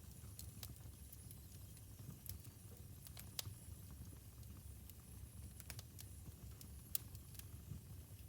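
Wood fire crackling: irregular sharp pops and snaps over a low, steady rumble of the burning logs, with a louder pop a little past three seconds in and another near seven seconds.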